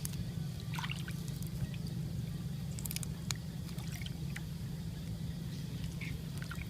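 Water trickling and splashing over a steady low rumble, with scattered small clicks.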